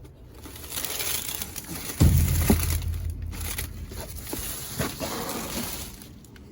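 Rustling and crunching of trash being handled and shifted, with one heavy thump about two seconds in and a few lighter knocks.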